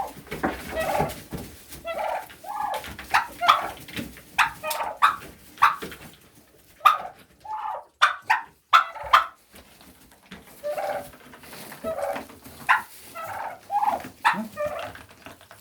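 A group of turkeys calling, many short calls in quick succession and overlapping, with a brief lull about ten seconds in.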